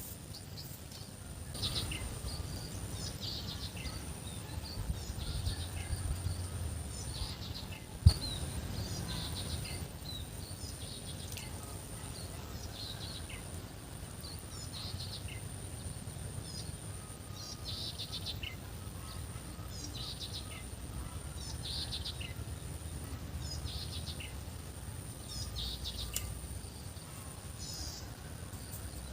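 Small birds chirping in many short calls, over a steady high-pitched insect drone and a low rumble. A single sharp click about eight seconds in is the loudest sound.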